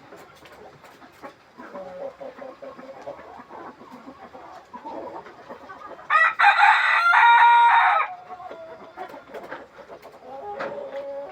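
A flock of free-range chickens clucking, with one rooster crowing loudly for about two seconds in the middle.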